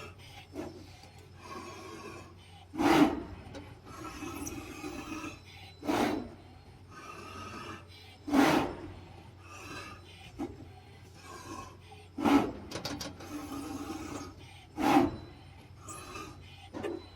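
CNC cutting machine working a polyester fiber acoustic panel. It runs with a steady hum, and five loud, short rasping swishes come at roughly two-and-a-half to three-second intervals as the tool cuts through the felt-like panel.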